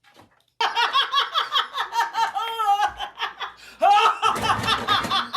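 A person laughing hard in quick repeated bursts, with a short break about three seconds in before the laughter starts again.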